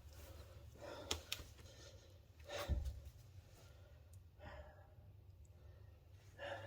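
A few faint clicks and a soft knock of metal brake parts and tools being handled, over a low steady hum.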